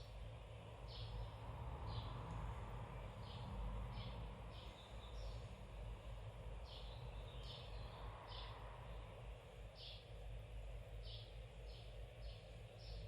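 A small bird chirping over and over: short, high chirps about once a second, uneven in spacing, over a steady low hum.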